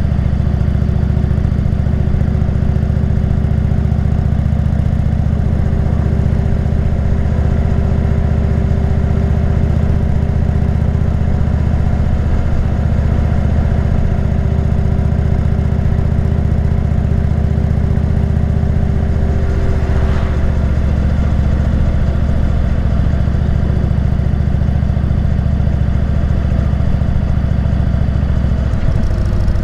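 Motorcycle engine running at a steady speed while cruising. There is a brief rush of noise about two-thirds of the way through, and the engine note drops near the end.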